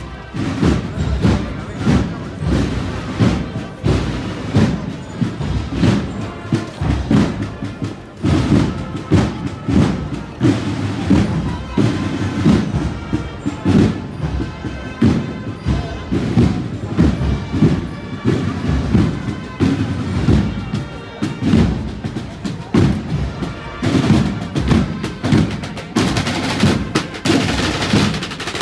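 Holy Week procession band playing a slow, steady march beat on drums and bass drum, a little more than one stroke a second. Held instrumental tones join in around the middle.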